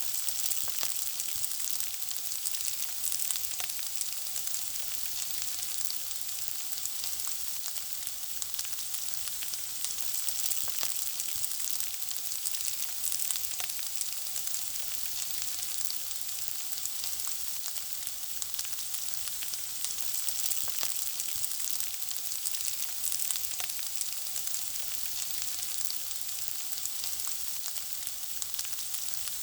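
Food frying in hot oil: a steady, high sizzling hiss dense with fine crackles and pops.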